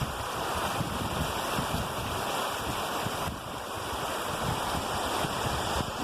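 Steady rush of falling water from a waterfall, with some wind rumbling on the microphone.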